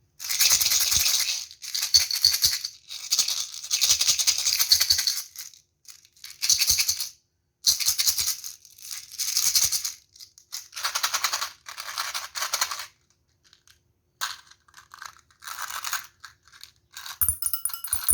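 Small hard candies being poured or shaken, in repeated bursts of about one to two seconds with short silent gaps between. The bursts grow quieter in the last few seconds.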